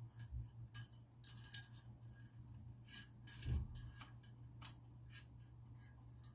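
Motorcycle fork parts handled on the bench: a scatter of light metal clicks and scrapes, with a duller knock about three and a half seconds in, over a steady low hum.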